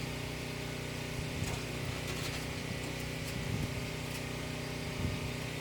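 A steady engine hum with a few faint clicks.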